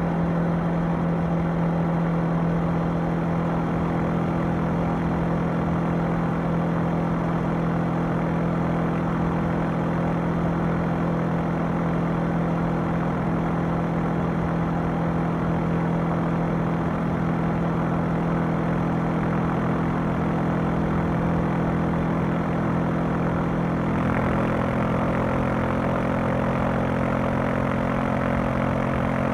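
Honda CB500X's parallel-twin engine and exhaust running at a steady cruise under way. About 24 seconds in, the engine note drops to a lower pitch and holds there.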